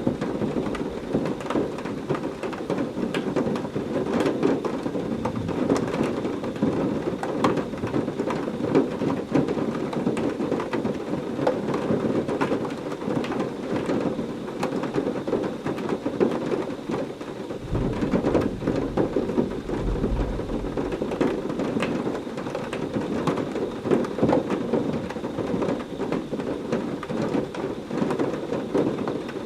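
Heavy rain falling steadily, a dense patter of drops hitting a surface. About eighteen seconds in, a low rumble of thunder rolls under the rain for some three seconds.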